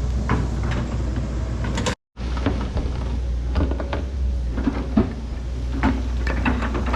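Diesel engine of heavy earthmoving equipment running steadily, with scattered clunks and knocks of steel and rock. The sound cuts out for an instant about two seconds in.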